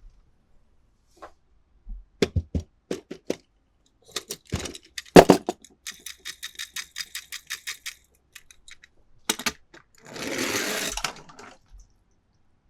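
Toy cars and their plastic packaging being handled: a few sharp clicks and taps, one loud knock, a quick run of even ticks for about two seconds, then about a second of rustling scrape.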